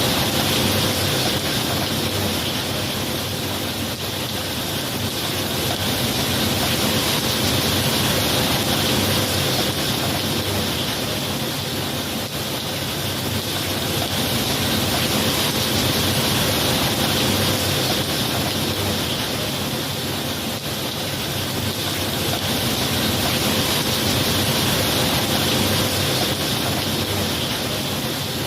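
Steady heavy rain, an even hiss of falling water that swells and eases gently every several seconds.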